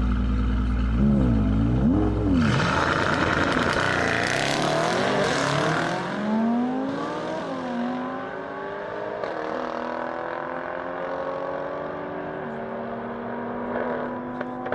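Mercedes-AMG car engine: a steady note, then two quick revs, then a loud rushing launch followed by hard acceleration, the engine pitch climbing and dropping back at several upshifts as it slowly grows quieter.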